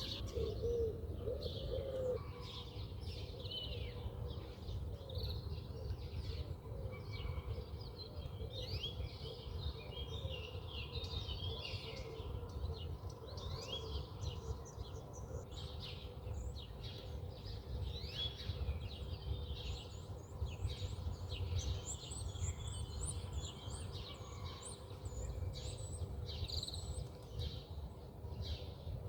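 Several wild birds chirping and calling, many short overlapping chirps and trills, over a steady low rumble.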